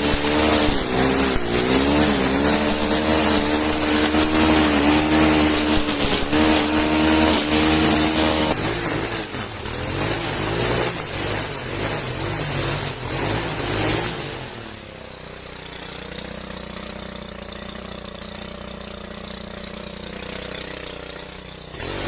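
Motor strimmer (string trimmer) running at high speed, its pitch wavering as it cuts under bushes. About 14 seconds in it drops to a lower, steadier hum.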